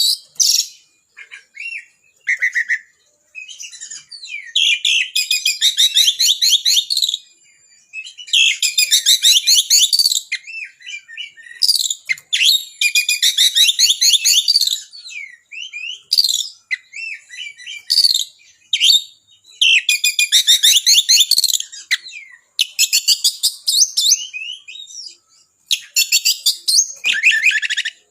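Oriental magpie-robin (kacer) singing: loud, high-pitched bursts of fast, sharp, trilled phrases, each two or three seconds long, with short pauses between them.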